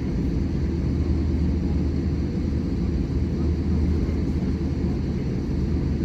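Steady low rumble inside the cabin of an Airbus A320-200 on the ground, its engines running.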